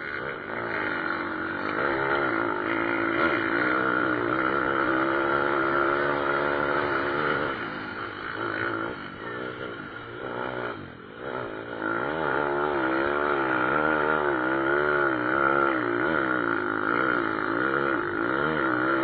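Pit bike motocross engines racing past, their pitch rising and falling continuously as riders rev and shift through the track; the sound dips for a moment about halfway through, then swells again.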